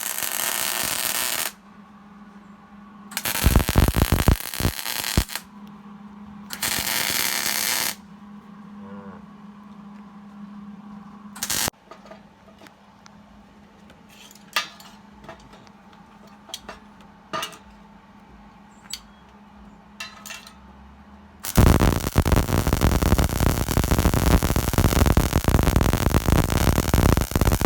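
Gas-shielded wire-feed (MIG) welder arc crackling in short bursts, then one long weld run of about six seconds near the end, with scattered clicks between and a steady low hum underneath.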